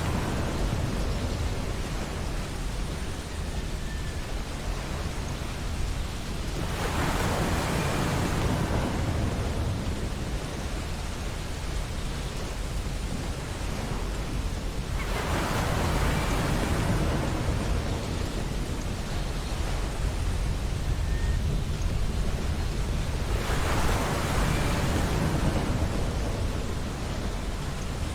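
Ocean waves breaking on a beach: three waves crash and wash in, roughly eight seconds apart, over a steady low surf rumble.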